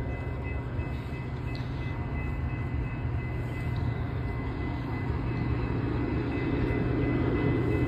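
Metra commuter train's bilevel coaches rolling past and pulling away: a steady rumble of wheels on the rails, growing a little louder near the end, with a faint steady high-pitched tone throughout.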